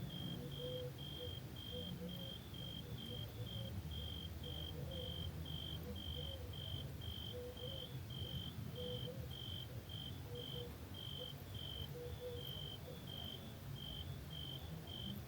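A cricket chirping in a steady, even rhythm of about three short chirps a second, over a low background hum.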